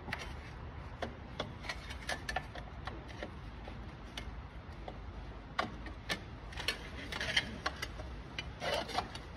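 Small metal parts of a fertiliser spreader's drive assembly clicking, tapping and scraping as they are handled and taken apart, with irregular clicks that come thicker near the end.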